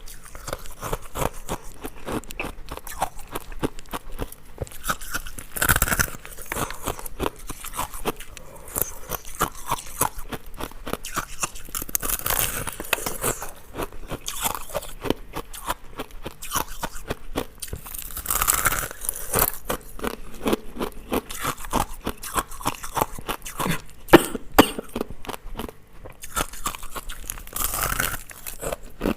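Ice being bitten and chewed close to the microphone: a continuous, fast crackle of crunching ice, with four louder crunching bites spread through it.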